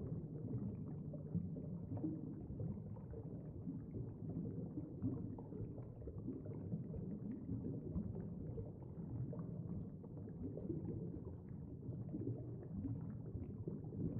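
Underwater ambience sound bed: a steady low rumble with faint scattered crackling above it.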